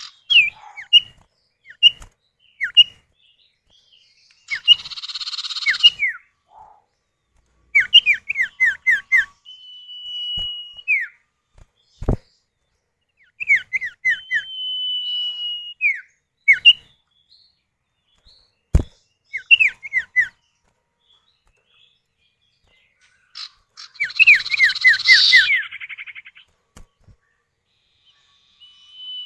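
Common iora calls, male and female answering each other: runs of quick downslurred notes, two long drawn-out whistles that drop off at the end, and two harsh buzzing chatters. Two sharp clicks also sound in the middle.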